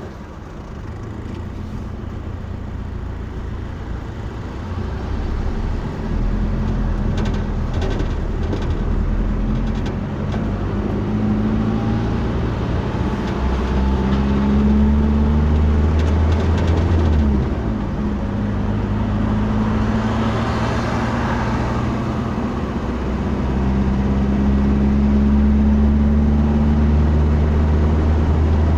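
Road vehicle running, a low engine drone with road noise that steps up and down in pitch and loudness several times as the vehicle changes speed.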